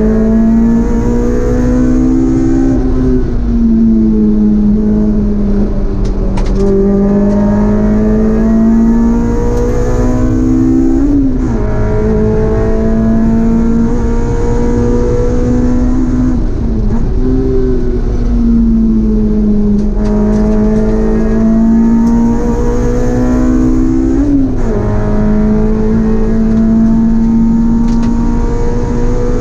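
Honda S2000's four-cylinder engine heard from inside the cabin at racing pace. Its note climbs slowly and then drops sharply four times, about 3, 11, 17 and 24 seconds in, over steady road and tyre noise.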